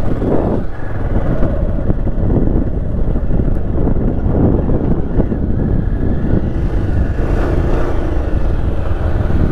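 Motorcycle running steadily while being ridden, its engine drone mixed with dense low rumbling noise.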